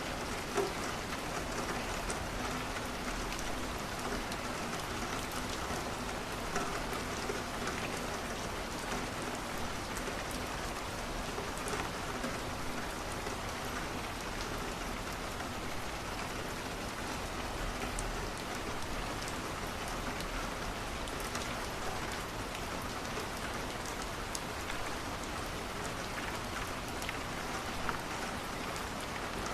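Steady rain pattering, with a few faint sharp crackles from a wood fire now and then.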